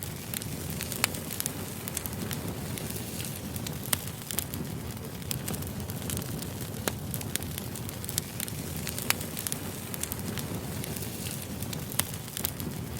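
Wood campfire burning: a steady low rumble of flame with irregular sharp crackles and pops from the burning wood.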